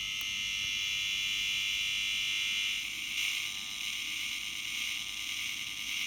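Washing machine motor noise carried on the mains, a steady hiss with several high, steady tones that shifts in character about three seconds in. A Bajog 5B mains filter plugged in parallel makes no significant difference to it.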